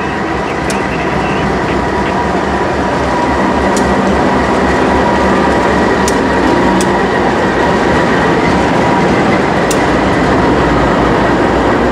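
Union Pacific freight train with several diesel locomotives passing close, a dense rumble of engines and wheels on rail that grows louder over the first few seconds and then holds steady. A steady high whine runs through it, with a few sharp clicks.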